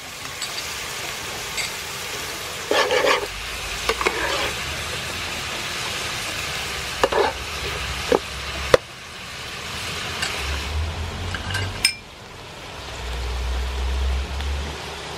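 Clam meat and green peppercorns sizzling in a hot pan, with a utensil scraping and knocking against the metal a few times as the stir-fry is turned. A low rumble comes in near the end.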